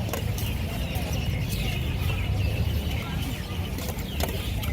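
Busy open-air market ambience: a steady low rumble under faint, indistinct crowd voices, with a few scattered clicks.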